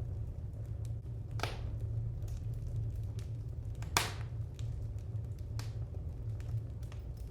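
Wood fire crackling in a fireplace: scattered small ticks over a steady low rumble, with two louder pops, about a second and a half in and four seconds in, the second the sharpest.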